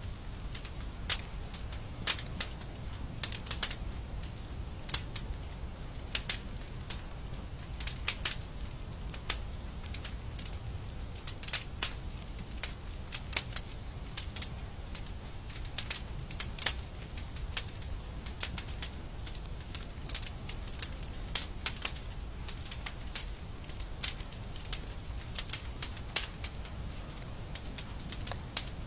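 Wood fire crackling, with irregular sharp pops, often several a second, over a low steady rumble of the burning.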